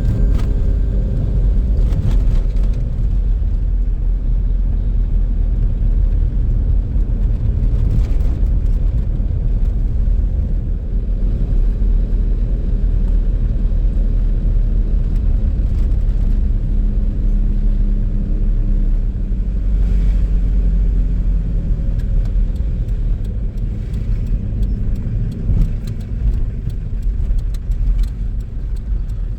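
Hyundai H1 van driving: a steady low engine and road rumble, with occasional light knocks.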